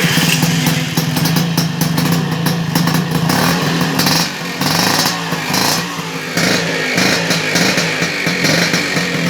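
Old Vespa PX single-cylinder two-stroke scooter engine running loudly and steadily, its pitch wavering slightly from about four seconds in.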